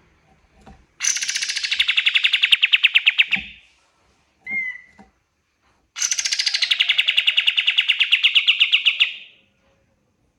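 Kapas tembak songbird singing two long rapid trills, about a dozen sharp notes a second, each swelling louder over roughly three seconds, with a short single call between them.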